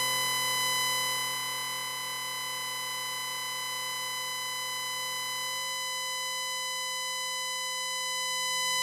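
Small electronic buzzer of a homemade 9 V fire alarm sounding one steady, continuous high-pitched tone: the alarm going off.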